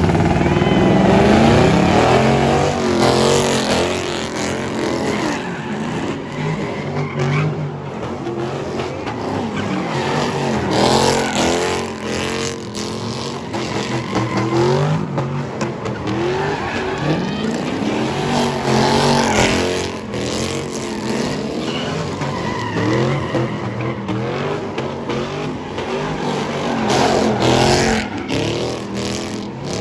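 Car engines revving hard at high revs over and over, pitch climbing and falling, with tyres squealing and skidding as the wheels spin.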